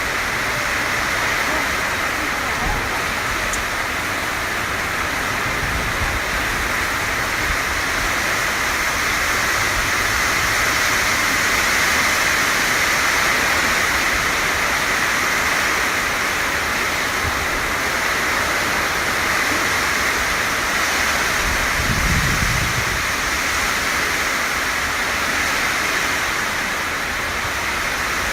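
Heavy tropical-storm rain pouring down in a steady, loud hiss, with wind gusts rumbling on the microphone now and then, most strongly about three-quarters of the way through.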